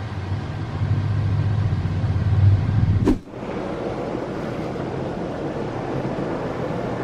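Car engine running with a steady low rumble, heard from inside the cabin; it cuts off abruptly about three seconds in, giving way to an even, faint hiss of room noise.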